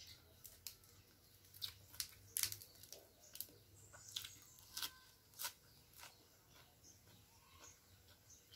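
Crisp, crunchy chewing and biting of a raw lettuce leaf eaten with rice: a string of irregular crunches, loudest about two and a half seconds in, thinning out after about six seconds.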